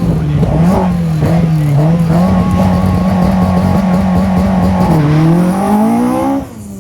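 Rally car engine revving, held at a fairly steady high pitch that wavers slightly, dipping and then climbing about five seconds in before the sound drops away suddenly near the end.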